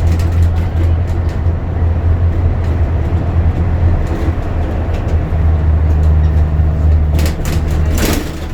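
Bus diesel engine running under way, a steady low drone heard from inside the passenger cabin, dipping briefly a little past the middle and easing off near the end, with a few rattles.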